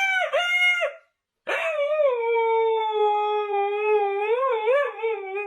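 Dog howling: a howl that breaks off about a second in, then after a short pause a long howl that drops in pitch, holds steady and wavers near the end.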